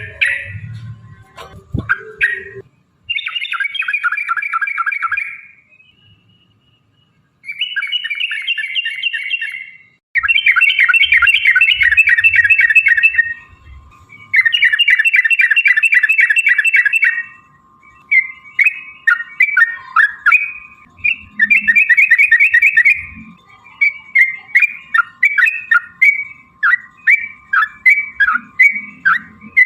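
Yellow-vented bulbul (trucukan) singing: long fast bubbling trill runs (ropel) of two to three seconds each, then from about 18 seconds in a string of short chirped phrases, about two a second.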